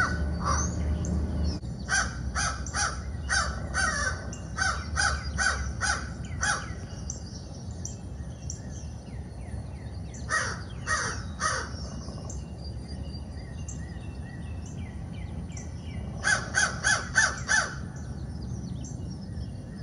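Recorded crow caws played back through a Bluetooth speaker to unsettle a perched Cooper's hawk: a run of repeated caws early on, a shorter run around the middle, and a quicker run of about five caws near the end. Faint high bird chirps sound in the gaps.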